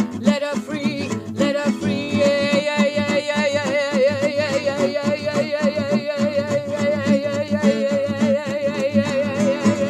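Song with acoustic guitar strumming beneath a voice that holds one long, wavering sung note for most of the stretch.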